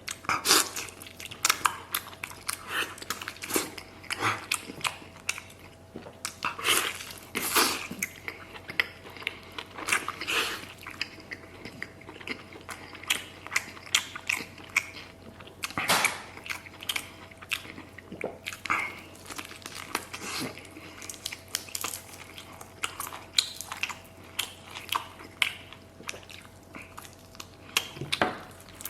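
A person eating close to the microphone, biting, chewing and crunching on a small duck leg in irregular runs of sharp mouth and food noises.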